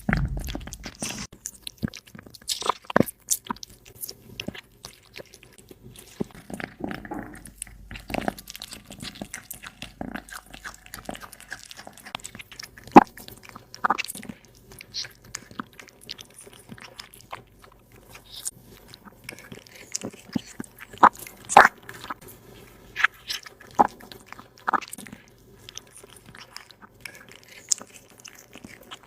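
A cat chewing food, with irregular sharp crunches.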